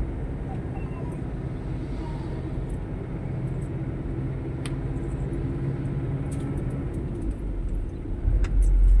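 Motor vehicle engine running steadily at low revs, a low pitched hum. A much louder low rumble comes in about eight seconds in.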